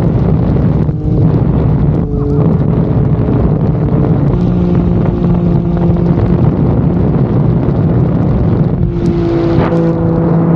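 Turbocharged Ford 4.0-litre inline-six race-boat engine running under way, loud and steady, its note shifting a few times with the throttle.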